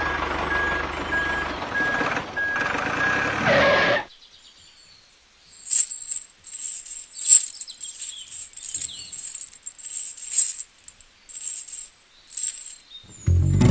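A small motorised toy vehicle running with a steady motor noise and a repeating beep; it cuts off about four seconds in. Faint, scattered high chirps follow, and music comes in near the end.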